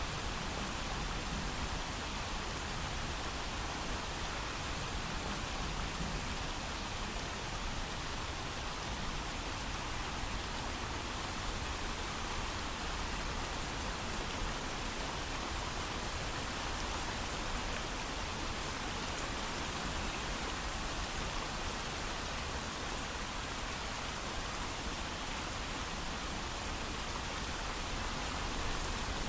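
Heavy, steady rainfall with no thunder: an even hiss of rain with no single drops or gusts standing out.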